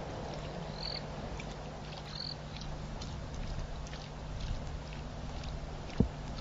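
Outdoor webcam ambience: a steady low hum under a noisy hiss, with two short high chirps about one and two seconds in and a single sharp click near the end.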